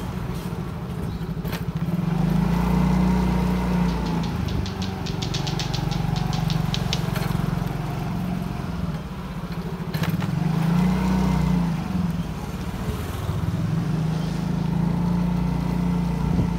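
Motorcycle engine running on the move, its note swelling and easing several times with the throttle. A quick run of evenly spaced high ticks comes in about four seconds in and lasts a few seconds.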